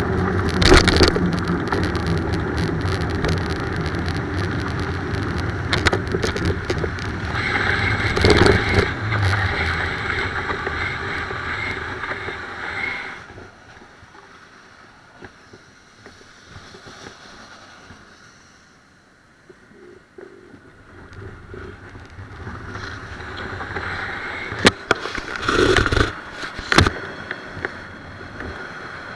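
Wind and road noise on the microphone of a moving bicycle, mixed with passing traffic. It falls away for several seconds midway, then builds again, with a few sharp knocks near the end.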